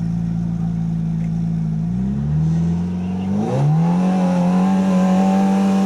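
A vehicle's engine running at a steady speed, rising briefly about two seconds in, then revved up at about three and a half seconds and held at high revs as it works through deep snow.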